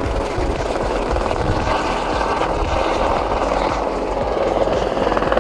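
Airbus H130 helicopter running, its rotor beating in a fast, steady pulse over a low rumble, growing louder near the end.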